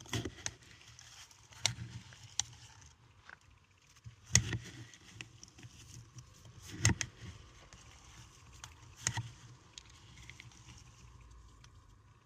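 Mothball crystals, a mix of paradichlorobenzene, naphthalene and camphor, being handled: scattered sharp crackly clicks, with louder knocks about four and a half, seven and nine seconds in, and quieter after that.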